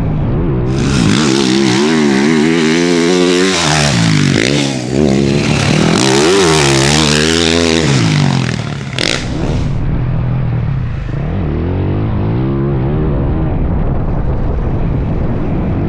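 Dirt bike engine being ridden hard, its pitch rising and falling as the throttle is worked. A loud rushing noise runs over it from about a second in until about nine seconds, then a sharp hit. After that the engine runs on more steadily at lower revs.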